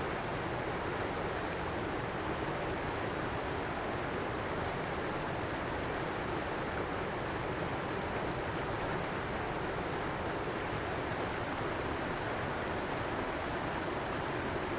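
Waterfall and rushing stream water, a steady even rush.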